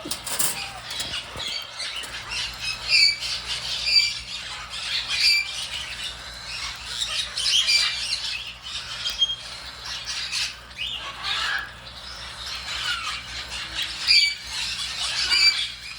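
Cockatiels calling over and over with short, high-pitched squawks.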